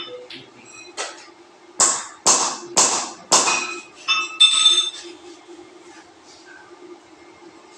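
Hammer blows: five sharp strikes, most about half a second apart, then a ringing metallic clink about four and a half seconds in, over a steady low hum.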